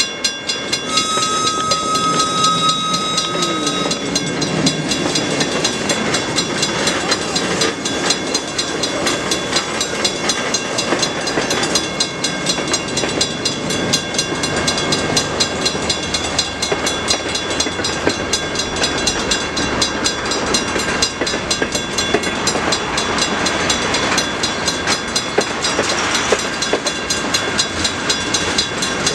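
Lake State Railway freight train rolling through a grade crossing, its cars clattering steadily over the rails. A steady high tone sounds over the first few seconds, and the crossing signals are active.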